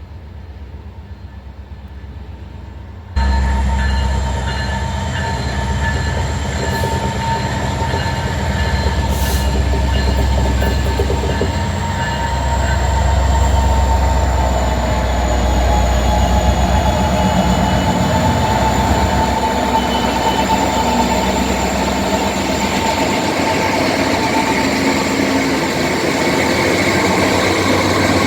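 Norfolk Southern freight train passing slowly at restricted speed. It jumps suddenly in loudness about 3 s in, as the diesel locomotives' deep engine rumble arrives. The rumble eases off about 20 s later as the freight cars roll by, with a steady high-pitched squeal over the rolling noise.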